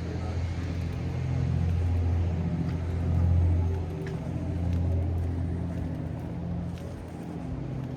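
Low, steady engine rumble that swells a little past the middle and then fades.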